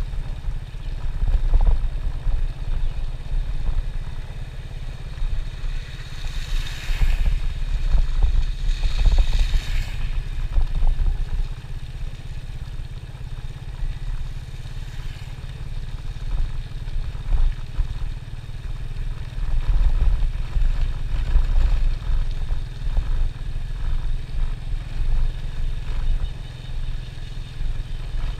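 Motorcycle riding at road speed: a steady low rumble of engine and wind buffeting on the microphone, with a brief louder hiss about seven to ten seconds in.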